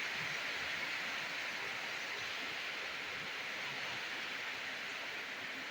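Heavy rain falling in a steady downpour, an even hiss with no thunderclap.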